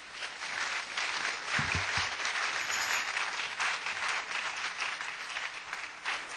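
Audience applauding, building up in the first second and holding steady.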